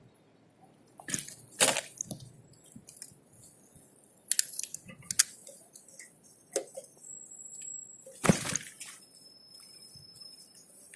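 Scattered sharp knocks and clicks from a camera riding on a bike over bumps: two about a second in, two more around four to five seconds, and the loudest a little past eight seconds, with smaller rattles between over faint road noise.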